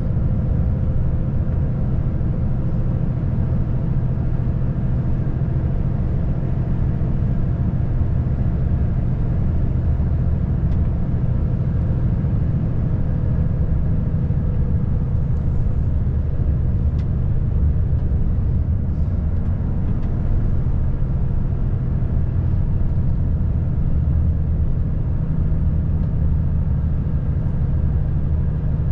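Volvo FH540 truck's 13-litre straight-six diesel running steadily on the road. It makes an even low drone with road rumble and does not change pitch or level.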